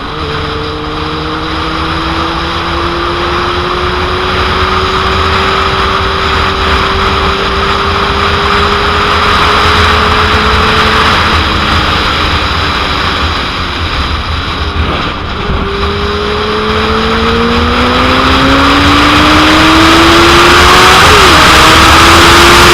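2001 Suzuki GSX-R750's inline-four engine pulling under heavy wind noise on the microphone. Its pitch rises slowly, dips about two-thirds of the way through, then climbs again as the wind grows louder near the end.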